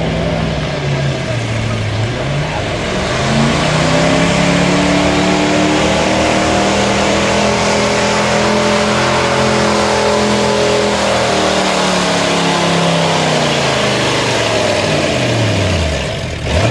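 A pulling truck's engine at full throttle through a pull: the pitch climbs over the first few seconds, holds high for most of the run, then falls away near the end.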